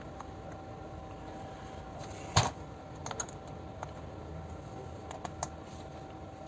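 Small metal parts and hand tools being handled on a workbench: one sharp click about two and a half seconds in, then a few lighter scattered clicks, over a steady low background hum.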